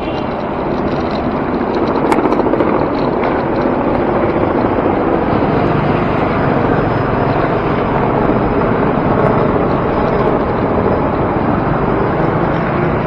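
Steady, loud road and traffic noise heard from a moving bicycle, with wind buffeting the microphone and a few short clicks about two seconds in.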